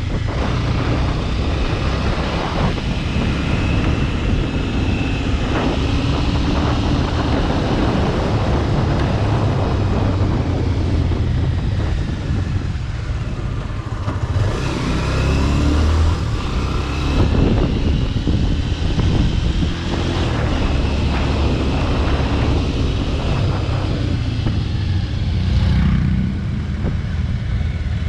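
Bajaj Pulsar RS200's single-cylinder engine with a modified exhaust, running hard on the move, its pitch rising and falling as the throttle opens and closes.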